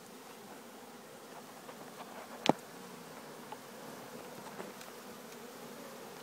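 A swarm of honeybees buzzing with a steady hum, with one sharp click about two and a half seconds in.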